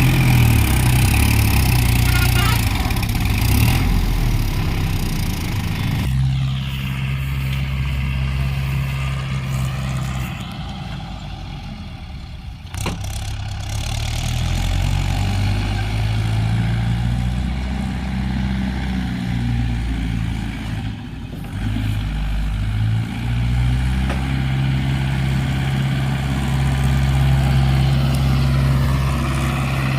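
Tractor diesel engine running hard, its pitch shifting up and down in steps, easing off for a few seconds around the middle before picking up again.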